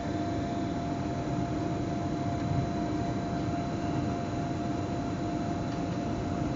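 Steady noise inside the cab of a Zürich S-Bahn electric train: a low rumble with a constant thin electrical whine over it.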